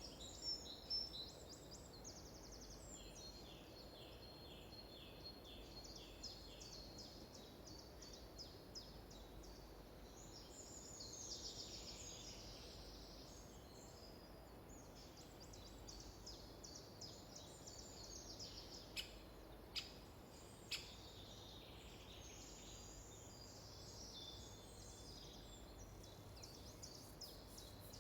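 Several songbirds singing at once, faint, with quick repeated high chirps and trills overlapping throughout. A few sharp clicks come about two-thirds of the way through.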